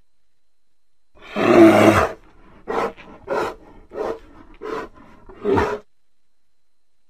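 Bear growling: one long deep growl, then five short growls in quick succession.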